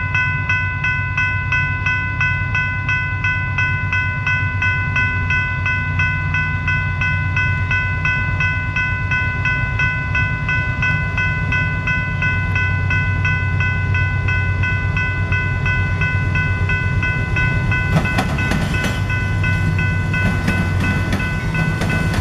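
Grade-crossing warning bells ringing steadily over the low rumble of approaching GE diesel locomotives hauling a long freight train. From about 18 seconds in, wheels click over the crossing rails and rail joints as the lead locomotive draws close.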